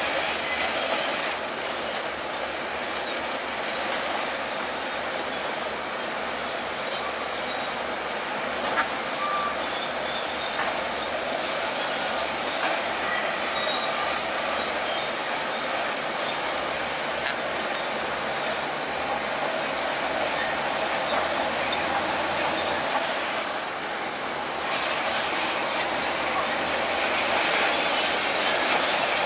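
Bulldozer working: its engine running and steel crawler tracks clattering in a steady mechanical noise, which gets louder near the end.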